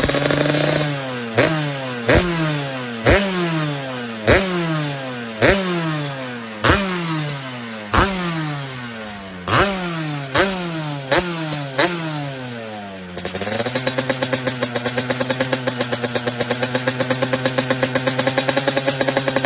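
125cc two-stroke motard engine, a TM SMR 125, blipped hard about eleven times in a row, the revs snapping up and falling back after each blip. It then settles into a steady, pulsing run.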